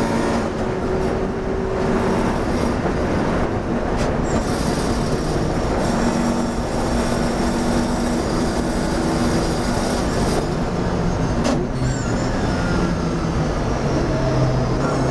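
Classic racing car's engine running hard, heard from inside the open cockpit, a steady loud drone mixed with road and wind noise. Two sharp clicks come about 4 and 11.5 seconds in, and near the end the engine note drops as the car brakes hard for a corner.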